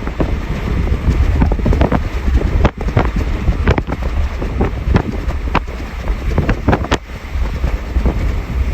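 Passenger train running: a steady low rumble with wind noise on the microphone, broken by irregular clicks and rattles several times a second.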